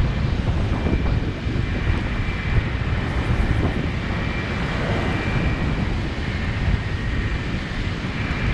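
Wind buffeting the microphone over a steady rush of river water, with a faint high whine drifting in and out.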